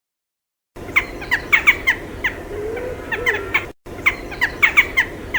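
Bird calls: a quick series of short, sharp calls, with a low wavering hoot-like tone under them near the end of each pass. The same three-second recording plays twice, with a brief break between.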